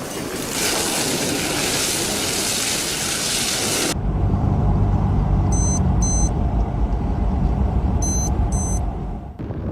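A steady loud hiss, then a sudden cut to a low rumble with two pairs of short, high electronic beeps.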